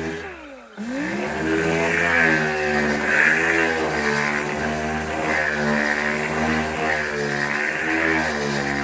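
A power tool running on body work, with a pitched whine that wavers as it is loaded. About half a second in it briefly spins down and then speeds back up.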